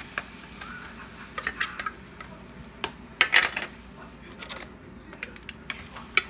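A utensil clicking, tapping and scraping against a sardine tin and bowl as sardines are dropped into the noodles, with a louder run of clinks a little past the middle.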